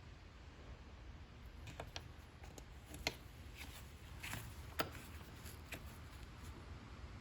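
A scatter of light clicks and taps, as of small hard objects being handled, with two sharper clicks about three seconds in and again near five seconds, over a low steady hum.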